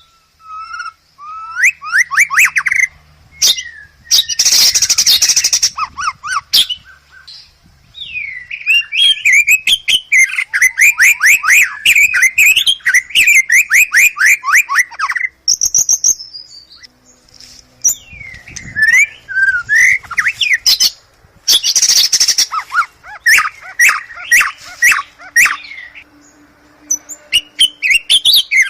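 White-rumped shama (murai batu) song: long runs of rapid, repeated chirping trills and whistled notes, with harsh rasping bursts about four seconds in and again near twenty-one seconds.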